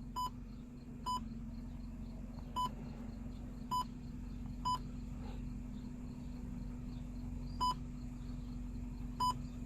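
Short electronic key beeps from the car stereo head unit, seven of them at irregular intervals as buttons are pressed to pick the next song. A steady low hum runs underneath.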